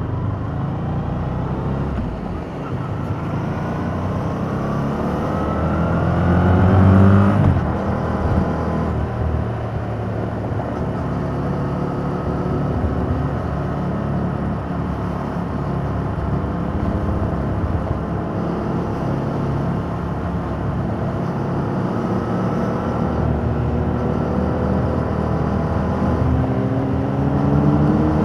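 2021 Yamaha MT-07's 689 cc parallel-twin engine through its stock exhaust under way. Its pitch climbs under acceleration until about seven seconds in, drops as the throttle eases, holds at a steady cruise, then climbs again near the end.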